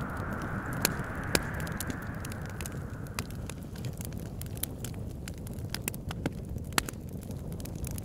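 Wood fire crackling, with irregular sharp pops over a steady low rumble of wind. A hissing, whistling wind sound in the first few seconds fades away about three seconds in.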